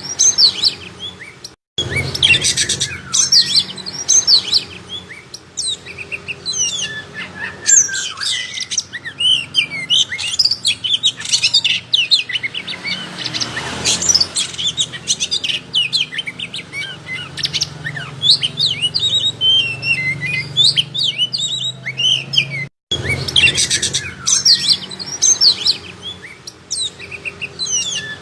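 Oriental magpie-robin (kacer) singing in full voice: a fast, unbroken stream of varied chirps, trills and whistles over a faint low hum. The song cuts out briefly twice.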